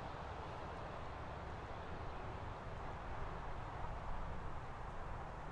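Train running away on the track: a hauled six-car Comeng electric set, its wheels on the rails giving a steady low rumble and hiss, with an uneven low buffeting underneath.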